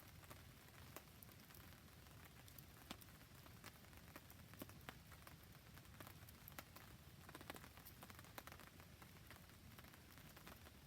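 Faint rain pattering with a wood fire crackling, many small sharp pops and ticks scattered over a steady soft hiss.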